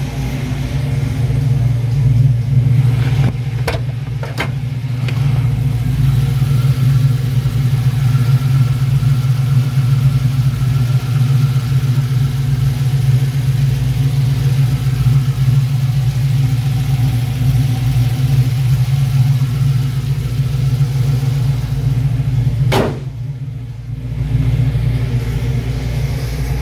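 GM crate LS3 6.2-litre V8 idling steadily through a Flowmaster exhaust with an X-pipe, an even low rumble. A sharp click and a brief drop in level come near the end.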